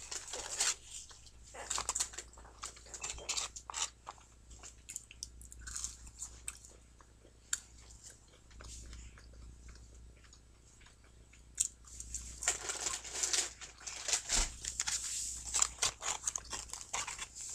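A person chewing and biting french fries close to the microphone: repeated soft crunches and wet mouth clicks. A louder stretch of rustling and handling comes about two thirds of the way through.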